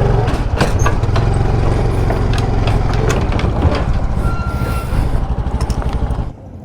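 Yamaha PG-1 motorbike's small single-cylinder engine running close by, with a low steady pulse and scattered clicks and clanks. The sound drops off sharply near the end.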